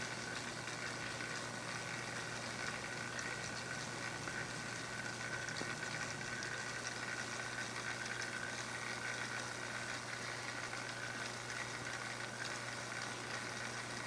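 A small motor-driven device running steadily: a low hum and a steady high whine over an even hiss.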